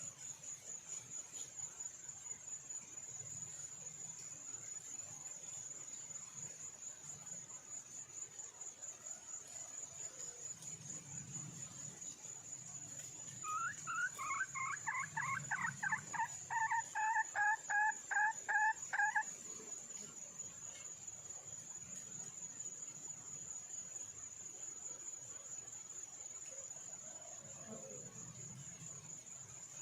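A red junglefowl hen calls for a male with a run of rapid, evenly repeated cackling notes, about four a second for some five seconds around the middle. The notes grow louder as the run goes on. A cricket trills steadily and high-pitched throughout.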